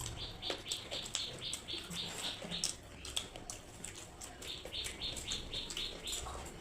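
Eating sounds, with scattered clicks of chewing and crunching food. Over them come two runs of high, quick chirps, about five a second, one near the start and one near the end.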